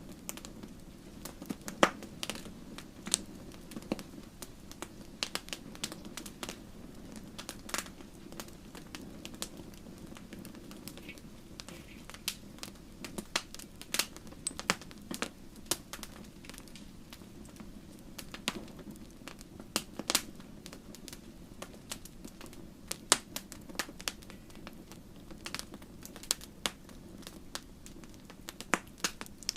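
Fire in a fireplace crackling, with irregular sharp pops and snaps of varying strength over a low, steady background hum.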